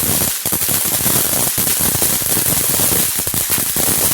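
A string of firecrackers going off in a dense, rapid run of loud bangs and pops.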